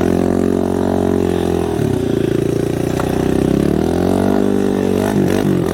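110cc dirt bike engine running under throttle as the bike is walked up soft sand, the rear wheel struggling for traction. The revs sag about two seconds in and climb again near the end.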